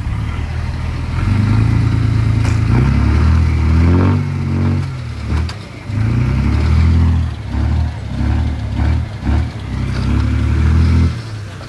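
Diesel engine of heavy earthmoving machinery revving hard and easing off repeatedly, its pitch gliding about four seconds in; the engine noise drops back near the end.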